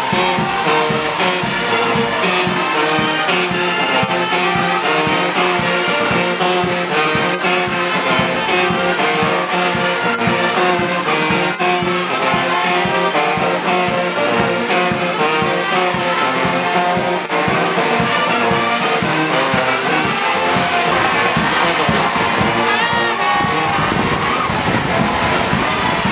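Brass band music with trumpets and trombones over a steady beat, as played for a marching parade.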